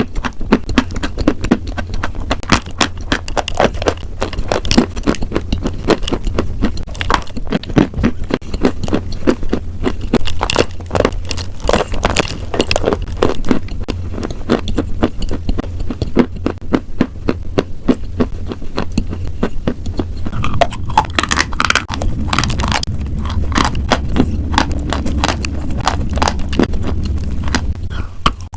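Close-miked chewing of crunchy food: a dense, continuous run of crisp crunches and clicks, a little softer and wetter near the end, over a steady low hum.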